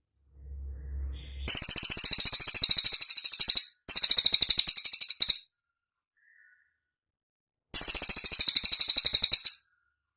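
Cililin bird singing three loud, rapid, very high-pitched trills of quick even notes, each lasting about two seconds, with short gaps between them. A faint low rumble comes just before the first trill.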